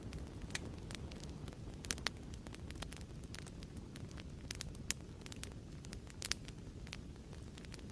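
Fireplace fire crackling: a steady low rumble of burning with irregular sharp pops and snaps, a few louder ones about two, five and six seconds in.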